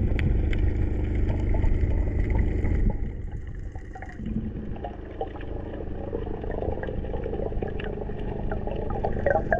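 Water sloshing and gurgling, with a heavy low rumble over the first three seconds that then drops away to quieter lapping and small splashes.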